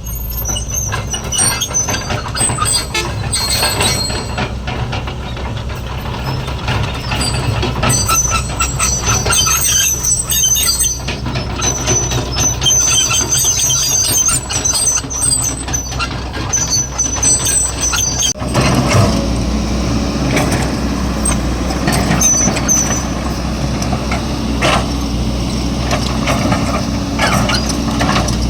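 Heavy excavator's diesel engine running under load, with metal squealing from the machine in the first two-thirds and scattered knocks. About two-thirds through the squeals mostly stop and the engine sound grows fuller.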